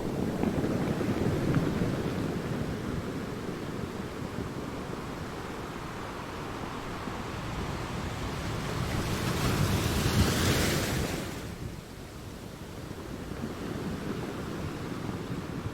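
Ocean waves breaking against rocks, a continuous rushing wash of surf that swells and ebbs, with one bigger wave crashing about two thirds of the way through, with a bright hiss of spray, then falling back.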